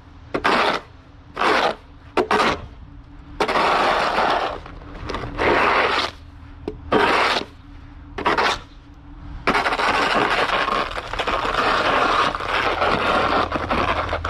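Snow shovel scraping across a paved walkway in a series of short pushes, then one longer continuous scrape over the last few seconds.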